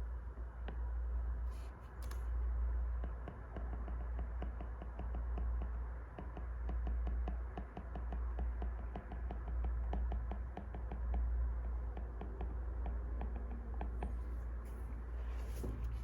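Wood fire crackling in a fireplace: a dense run of small sharp pops and snaps over a low steady rumble of flame.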